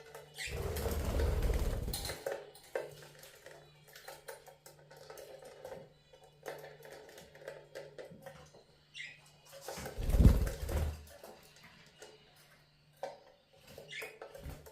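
Budgerigars bathing: two bouts of wing-fluttering and splashing in water, with scattered small clicks and a few short chirps between them.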